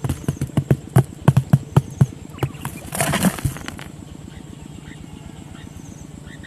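A quick, uneven run of sharp knocks for the first two and a half seconds, then about a second of dense rustling about three seconds in.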